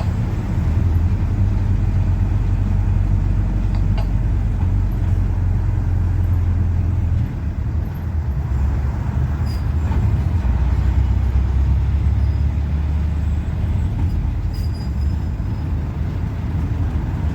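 PAZ-4234-05 bus under way: its diesel engine drones steadily with road noise, easing off briefly about seven seconds in. A few light rattles and clicks come through.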